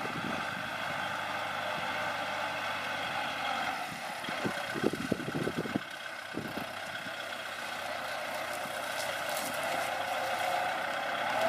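Kubota L4708 tractor's diesel engine running steadily, with a short run of clunks about halfway through.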